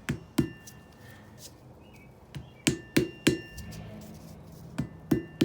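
Hammer striking on an anvil, forging a soft lump of sodium metal: eight sharp blows in groups of two, three and three, each with a faint metallic ring.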